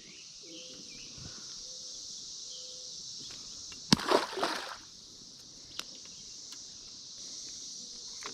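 Chorus of Brood X periodical cicadas, a steady high-pitched drone. About four seconds in, a sharp click and a brief splash, the cicada bait landing on the pond.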